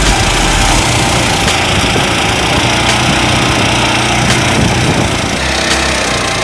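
Engine-driven rice thresher running steadily, with a few sharp ticks.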